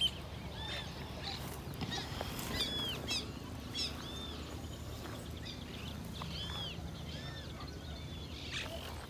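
Birds calling: a scatter of short, arched chirping notes from several birds at different pitches, over a faint low steady rumble.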